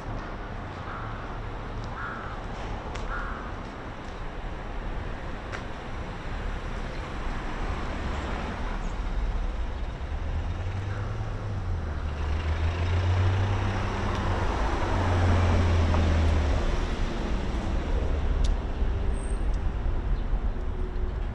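A crow cawing three times near the start, then a passing heavy road vehicle, engine hum and tyre noise swelling to loudest a little past the middle and fading.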